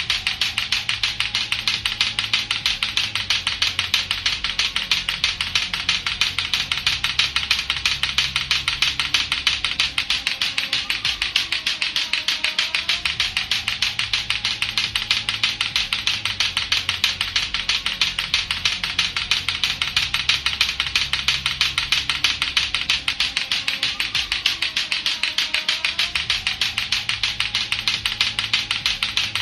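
Latto-latto clacker toy, its two hard plastic balls on strings knocking together in a rapid, unbroken clacking. Under it runs a looping low background track that repeats about every twelve seconds.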